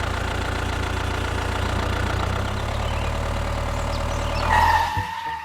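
Tractor engine idling steadily, cutting off about five seconds in, with a brief higher tone near the end.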